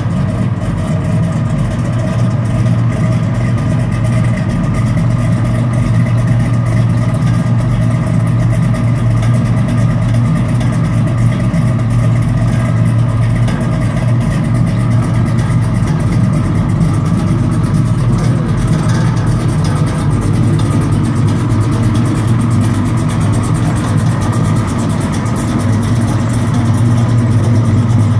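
Classic Chevrolet car engine idling steadily with a low, even exhaust note and no revving. It gets slightly louder near the end.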